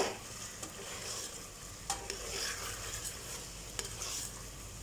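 Chicken pieces, onion, tomato and coriander being stirred in hot oil in a pressure cooker: a steady sizzle, with a few sharp clicks as the stirring utensil knocks against the pot.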